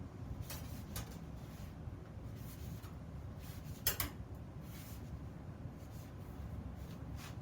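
Light scraping and handling sounds with scattered small clicks over a low steady hum, one sharper click a little past the middle.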